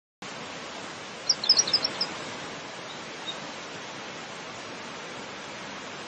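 A small bird gives a quick run of short, high chirps about a second and a half in, and one more chirp a moment later. They sit over a steady outdoor hiss that starts suddenly just after the beginning.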